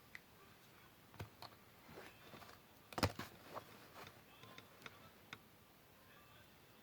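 Paper craft work being handled on a table: scattered small clicks, taps and soft paper rustles, with one louder knock about three seconds in.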